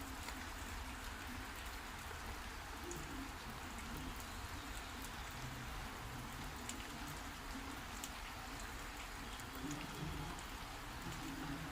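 Heavy rain falling steadily, with scattered sharp drop ticks over an even hiss.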